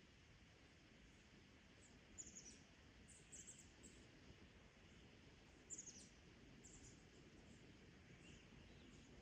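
Faint high bird chirps, a few short clusters of quick notes, over a low steady background noise.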